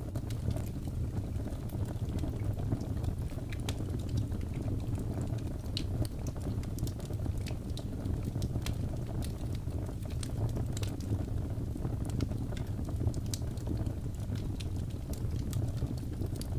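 Wood fire burning: a steady low rumble of flames with frequent small, sharp crackles and pops scattered throughout.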